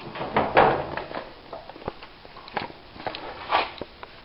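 Handling noise: scattered clicks and knocks with short rustles, the loudest rustle about half a second in.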